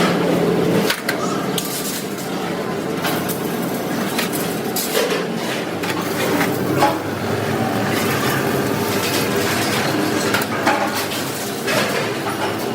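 Metalworking shop noise: a steady machine hum with frequent short metal knocks and clanks throughout.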